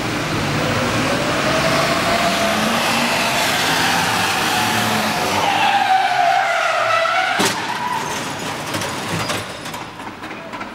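Car tyres skidding with a wavering squeal, then a sharp crash about seven and a half seconds in, followed by a few smaller knocks.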